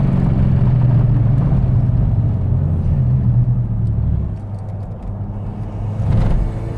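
SEAT Leon Cupra's turbocharged 2.0-litre four-cylinder engine pulling hard at around 110 mph, with a steady low drone and road and wind noise. The engine note eases off about four seconds in, then picks up again near the end.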